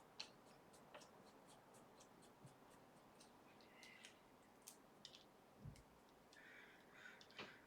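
Near silence with faint, scattered small clicks and ticks from handling the chip and tool; the rotary tool is not running.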